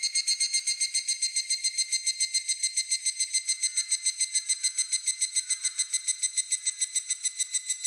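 Higurashi cicada (evening cicada) calling: a fast run of high ringing pulses, about seven a second, starting abruptly and going on steadily, over a fainter steady insect trill.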